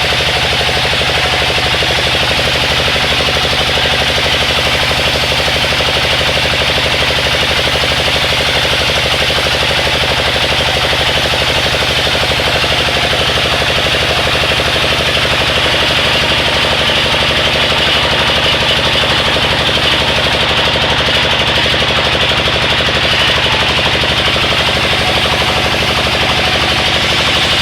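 Sawmill machinery running steadily, an engine-like drone with a fast, even pulsing.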